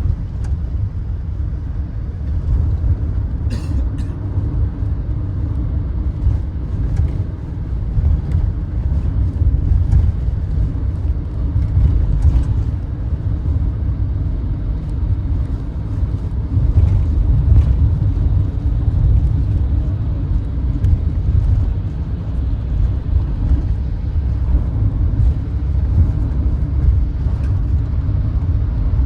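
Steady low rumble of a road vehicle in motion, heard from inside the cabin: engine and tyre noise, with faint rattles.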